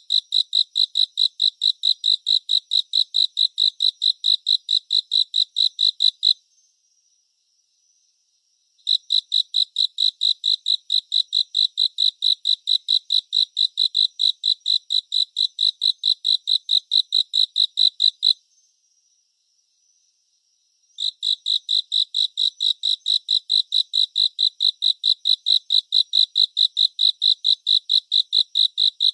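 A cricket chirping in a fast, even rhythm of about five high-pitched chirps a second. It falls silent twice for a couple of seconds, and a faint steady high trill carries on through the pauses.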